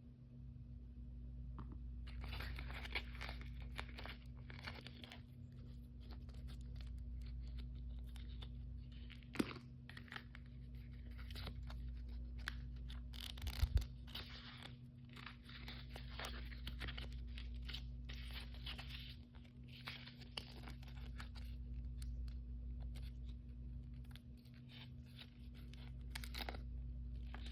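Hands tearing open and crinkling plastic blind-bag packaging: irregular rustles, rips and small clicks, with a couple of sharper snaps, over a steady low hum.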